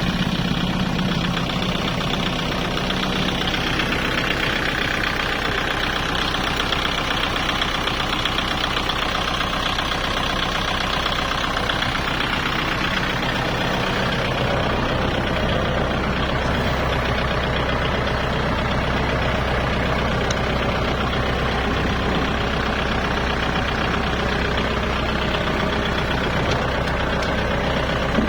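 Kubota tractor diesel engines running steadily while towing a hay baler stuck in mud. A deeper low hum comes in about halfway through.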